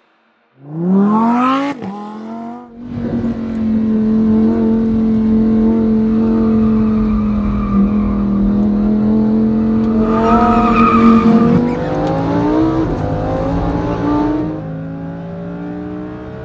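Lamborghini Huracán EVO's 5.2-litre V10 engine revving up sharply and dropping back, then running loud and steady at constant revs for several seconds. Near the end the note shifts lower and quieter.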